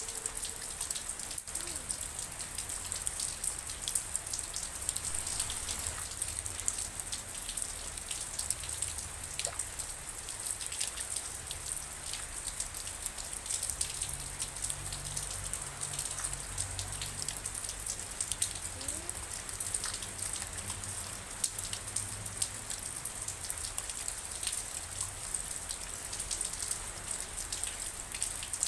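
Steady rain with many individual raindrops pattering on a surface, and a faint low rumble underneath.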